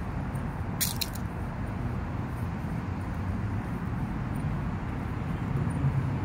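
Steady low rumble of outdoor background noise, with a couple of sharp clicks about a second in.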